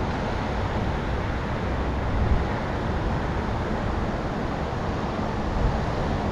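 Wind buffeting the microphone of a camera carried on a moving bicycle: a steady, rumbling rush with no break.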